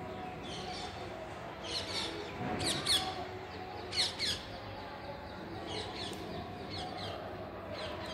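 Birds chirping: short runs of quick, falling chirps, repeated every second or so and loudest near the middle, over a steady low background hum.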